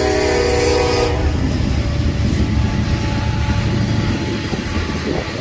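A diesel locomotive's multi-note air horn sounds and cuts off about a second in. Then a freight train's covered hoppers and tank cars roll past with steady wheel-on-rail noise.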